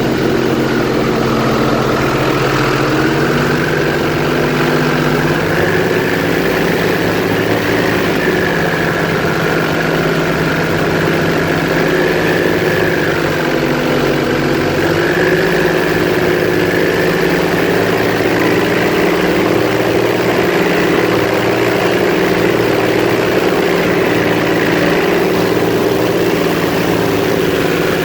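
Airboat's engine and big air propeller running steadily at cruising speed, loud and continuous, its pitch rising and falling slightly as the throttle shifts.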